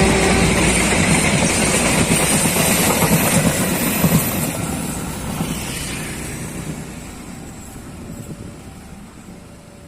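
A train running past at close range, its wheels on the rails making a dense rumble, then fading steadily over the second half as it moves away.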